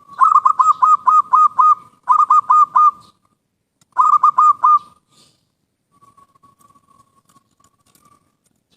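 Zebra dove (perkutut) singing: three quick runs of loud, clipped cooing notes, about six, then four, then four, followed by a faint soft trill in the last few seconds.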